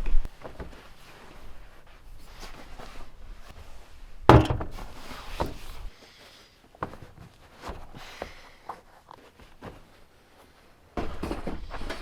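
Scattered knocks and thuds, with a loud thud right at the start and another about four seconds in, then a quieter stretch with a few light clicks.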